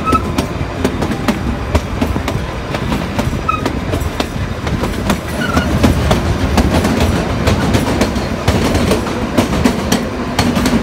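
Kalka–Shimla narrow-gauge toy train running, its carriage wheels clattering and clicking over the rails with a steady low rumble. It gets louder about halfway through as the train runs past a stone wall and into a tunnel.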